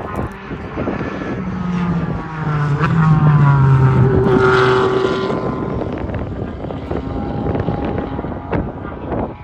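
Race car engine passing by at speed on a track: the engine note grows loudest about three to five seconds in and drops in pitch as the car goes past.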